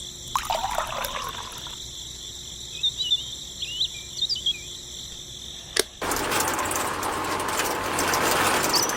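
Outdoor ambience: a steady high insect drone with short bird chirps. Near the six-second mark there is a sharp click, and then a loud, even rushing noise starts abruptly and runs on.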